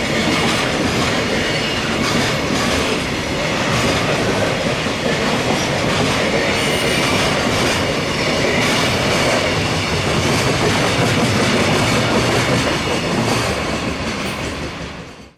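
Freight train wagons rolling steadily past at speed, their wheels clattering over the rail joints, with faint high squeal from the wheels on the rails.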